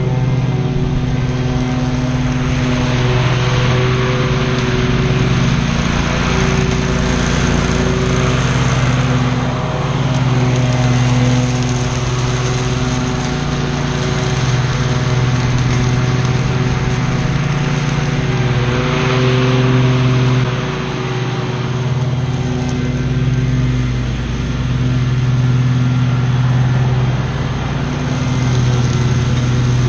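Lawn mower engine running steadily at full speed while cutting tall grass, with a rushing hiss that swells a few seconds in and again about two-thirds of the way through.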